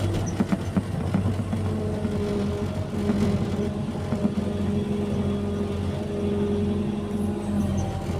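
Excavator diesel engine running steadily, with a few sharp knocks early on and a steady higher tone that joins about a second and a half in.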